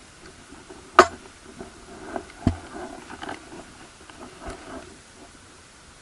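A few short, sharp knocks and clicks over a low background, the loudest about a second in and another about two and a half seconds in.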